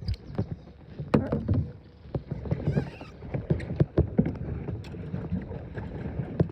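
Irregular knocks and bumps against a small boat's hull, several a second and uneven in strength, with water movement around the boat.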